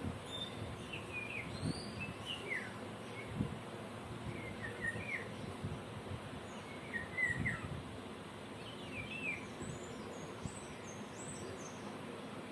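Several birds chirping in short, quick phrases every couple of seconds, some higher-pitched calls near the end, over steady outdoor background noise.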